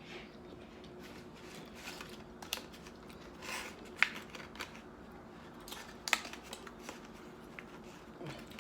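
Close-up eating sounds: scattered sharp clicks and short wet smacks of chewing and handling food, the loudest about four and six seconds in, over a faint steady background hum.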